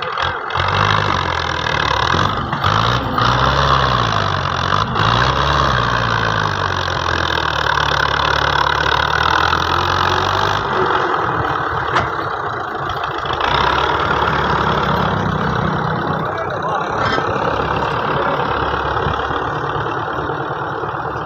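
Fiat tractor's diesel engine running, its pitch rising and falling several times in the first few seconds as the engine speed changes, then running more steadily.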